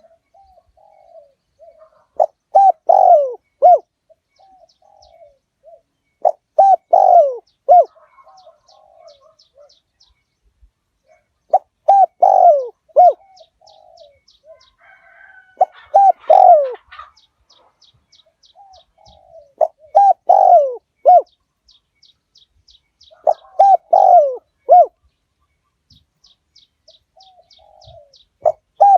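Spotted dove, a decoy bird, cooing: a short phrase of several falling coos repeated about every four seconds. Between phrases there is faint, rapid high chirping.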